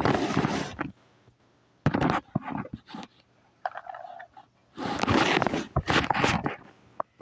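Road Rippers toy garbage truck giving irregular bursts of scraping, crunching noise, each lasting from half a second to a second and a half, with short quiet gaps between them.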